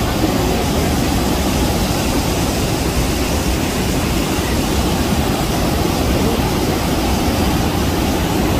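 The Rhine Falls, a large waterfall, pouring with a loud, steady rush of water that does not let up.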